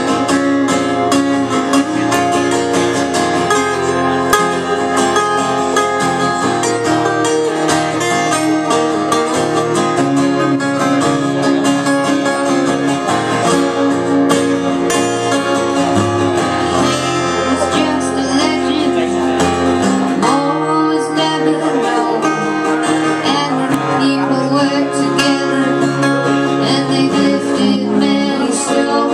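Live old-time string band music: strummed acoustic guitar with other plucked strings playing a steady, continuous tune.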